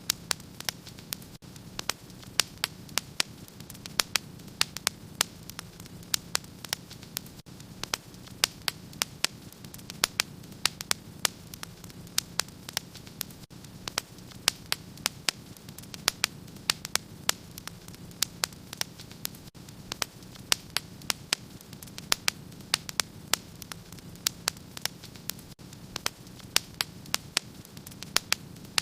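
Wood fire crackling in a fireplace: many sharp, irregular pops and snaps, several a second, over a steady low hiss and rumble of the burning logs.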